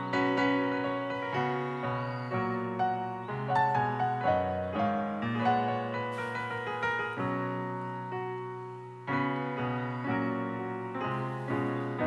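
Background piano music: a gentle melody of struck notes, each fading away.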